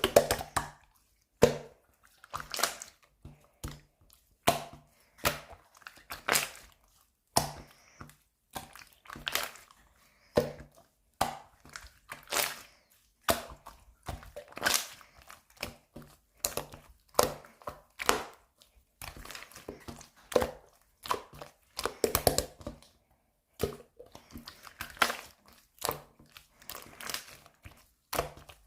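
Slime being squeezed and pressed by hand, making crackly, sticky squishes about once or twice a second.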